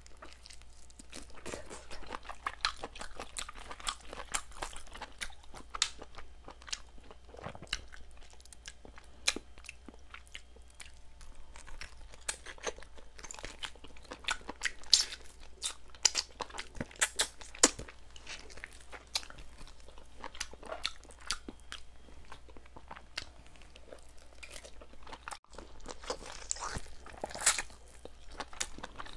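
Close-miked chewing and biting of boiled chicken: wet mouth sounds and irregular crisp crunches, a few sharper ones in the middle, over a steady low hum.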